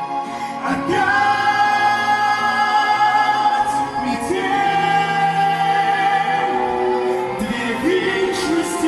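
Female and male voices singing a Russian pop ballad duet in harmony over musical accompaniment, holding long notes.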